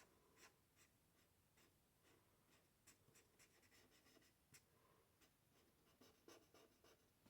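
Very faint scratching of an Ohuhu alcohol marker nib colouring on card, with small scattered clicks.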